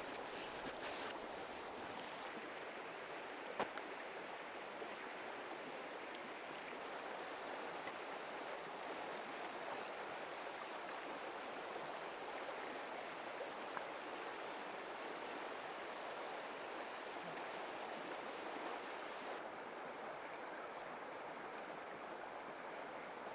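River water flowing steadily, a constant rushing, with one sharp click about three and a half seconds in.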